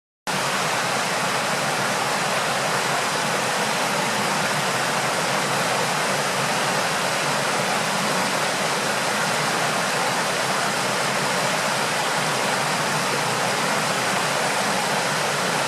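Steady rushing of flowing water, an even hiss-like roar that does not change.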